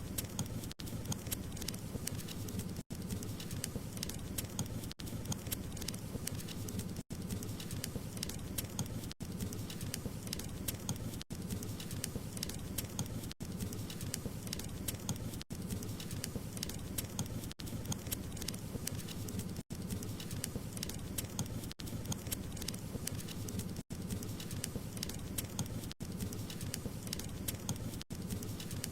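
Wood fire crackling steadily: a dense run of small pops and snaps over a low rumble. Brief cuts to near silence come about every two seconds.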